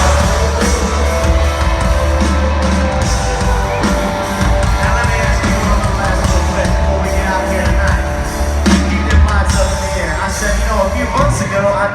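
Loud live country-rock band music with a heavy, steady bass and a singing voice.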